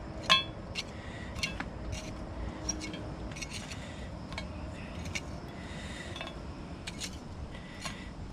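Pieces of burning charcoal being set onto a Dutch oven's lid, making sharp metallic clinks and clicks, the loudest just after the start and then scattered ones through the rest.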